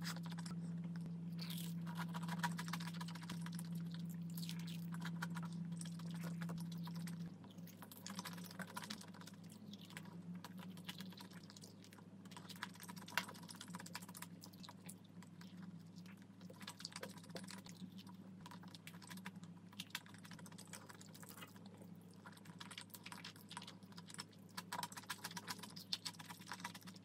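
Close-miked eating sounds: a person chewing creamy fettuccine pasta and fried chicken, with many small wet mouth clicks throughout. A low steady hum sits underneath and drops away about seven seconds in.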